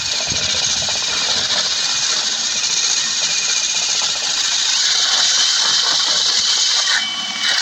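Motor-driven plastic chimney brush spinning inside a flue: a steady motor whine over a dense brushing hiss, the whine stepping up slightly in pitch about five seconds in.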